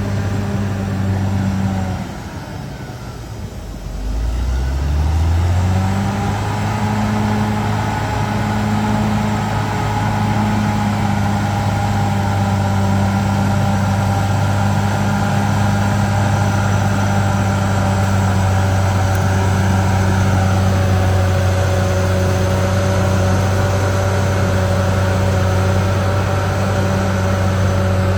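Caterpillar D6R XL bulldozer's diesel engine running steadily. About two seconds in, the revs and loudness drop sharply, then climb back within a few seconds and hold even for the rest of the time.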